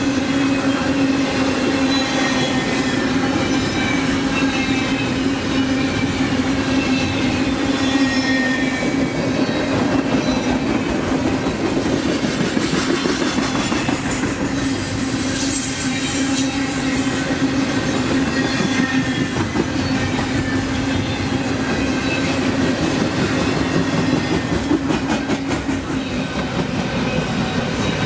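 A train rolling past close by: a steady, loud rumble of wheels on the rails with a constant low hum and faint high wheel squeals drifting in pitch, and a quick even clicking of wheels over rail joints near the end.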